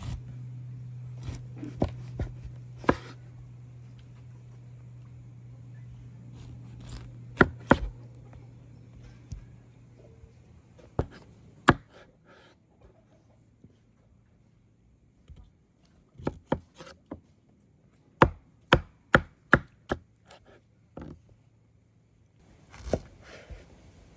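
A knife chopping food in separate sharp strokes, irregular at first, then a quick run of about six even chops a little past the middle.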